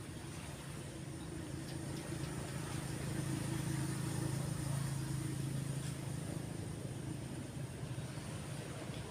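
A road vehicle passing by, its engine hum swelling over a few seconds and then easing off, over the steady wash of calm waves on the beach.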